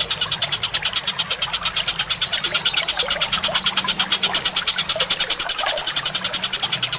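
Songbird training recording: a fast, even chatter of about ten pulses a second, with short lower chirps scattered through it.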